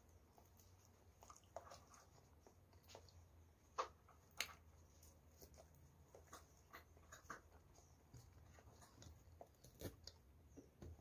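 Faint wet mouth clicks and smacks of a person chewing soft banana, with two sharper clicks about four seconds in.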